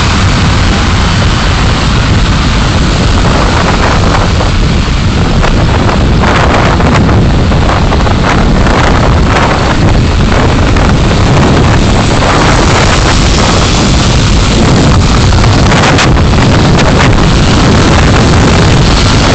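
A car driving, picked up by a dashcam: steady, loud road and engine rumble with a wind-like rush, and a few brief knocks partway through.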